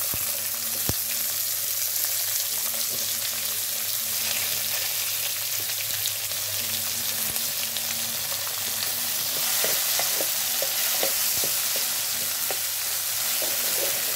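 Chopped tomatoes, green chillies and garlic frying in hot oil with browned onions in a metal karahi, a steady sizzle. A wooden spoon stirs them, scraping and tapping against the pan in short clicks, more often in the second half.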